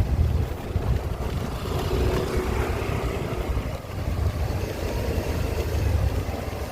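Motor scooter engine running as the scooter is ridden slowly, with a steady low rumble.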